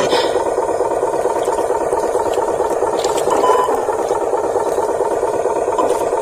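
Radio-controlled toy truck's electric motor and gearbox running with a steady rattling whir.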